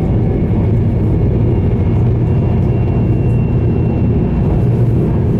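Steady interior running noise of a JR East E2 series 1000 Shinkansen at speed, a deep even rumble of wheels on rails heard inside the carriage. A faint high whine rises out of it for about two seconds in the middle.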